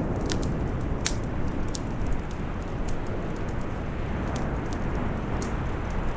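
Wood fire crackling with scattered sharp pops, the strongest about a second in, over a steady low rushing of storm wind.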